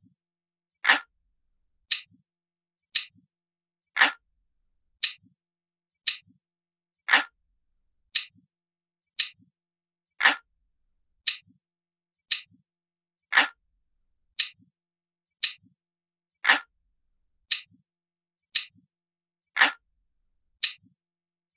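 Crisp, glass-like clock ticking sound effect of a countdown timer, one sharp tick about every second. Every third tick is fuller and reaches lower.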